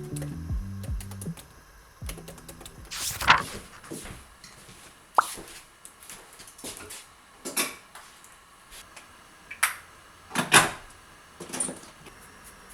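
Scattered small clicks, taps and swishes of household objects being handled, with a short bright clink about five seconds in.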